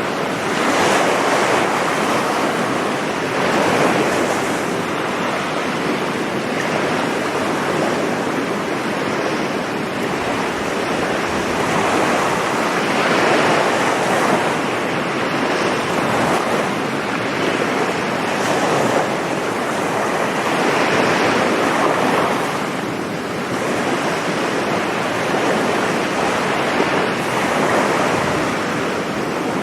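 Sea waves breaking and washing up a beach, a steady surf that swells and eases every few seconds, with some wind on the microphone.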